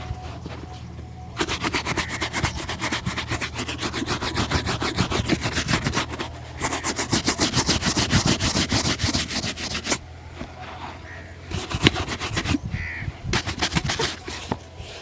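Fast back-and-forth strokes buffing a shoe during a polish, several strokes a second, in two long bouts with a brief break about six seconds in, then slower, scattered strokes after about ten seconds.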